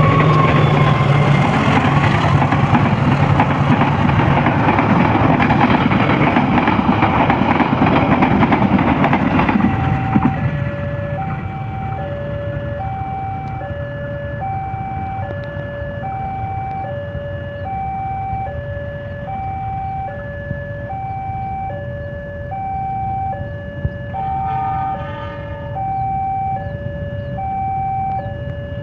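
A train passes with a loud, dense rumble that cuts off suddenly about ten seconds in. A level-crossing warning alarm is then left sounding, alternating steadily between a higher and a lower electronic tone. Near the end a train horn sounds briefly.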